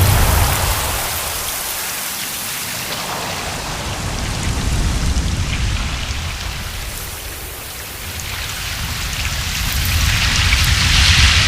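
Ocean waves washing in and drawing back in slow swells: a deep rumble with a hissing wash on top, easing off and building again, loudest near the end.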